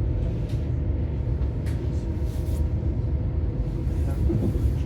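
Passenger train running along the rails, heard from inside the carriage: a steady low rumble with a faint even hum.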